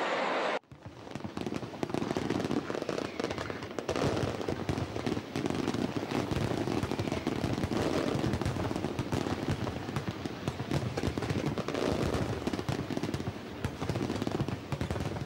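Aerial fireworks going off in a dense, continuous barrage of rapid bangs and crackling. It begins abruptly just after the start.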